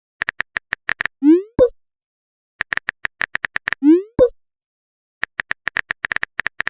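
Smartphone keyboard typing clicks in quick runs, each run followed by a short rising bloop and a pop, the message-send sound; the pattern comes twice and the third run of typing is still going at the end.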